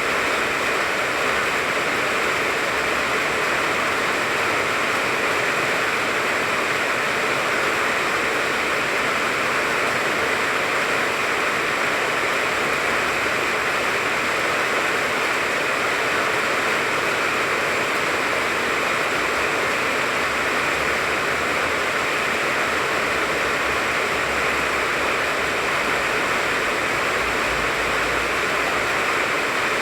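Steady rain falling on the leaves of a tangerine tree, an even hiss that holds at a constant level.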